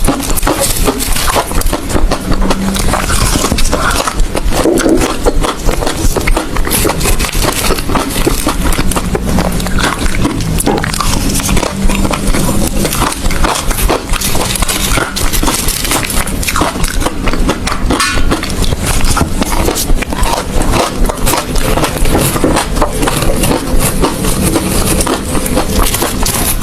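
Close-miked chewing of ice: a dense, unbroken run of loud crunches as the ice is bitten and ground between the teeth.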